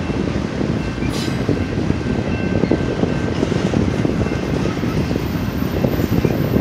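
BNSF double-stack intermodal freight train's container cars rolling past close by: a steady, loud rumble of steel wheels on rail with a rapid, continuous clatter.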